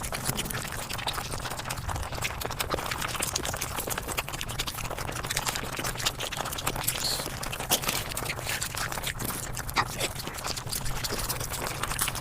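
Eating sounds sped up to five times normal speed: chewing, crunching and mouth smacks blurred into a fast, continuous stream of clicks and crackles.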